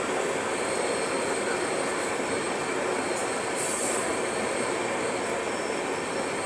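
Passenger train running along the rails, heard from beside an open coach window: a steady rumble and rush of wheels on track.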